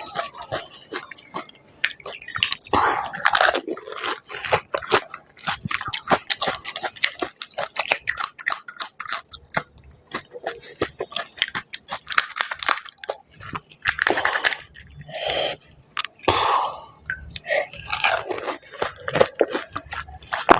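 Close-miked crunching and chewing of crisp panipuri (golgappa) shells, with many sharp crunches throughout. Several longer, breathy noises fall in between, about half a second each.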